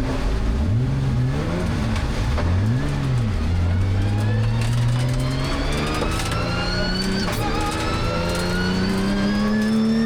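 Ginetta G55 race car engine revving up and down several times in quick succession, then pulling steadily up through the revs to the end, with a brief dip about seven seconds in.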